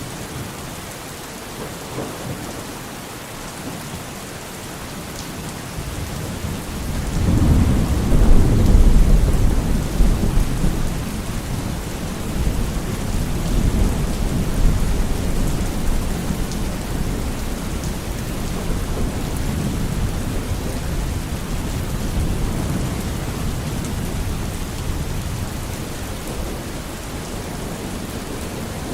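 Steady rain with a long roll of thunder that builds about seven seconds in, is loudest for a few seconds, then slowly dies away under the rain.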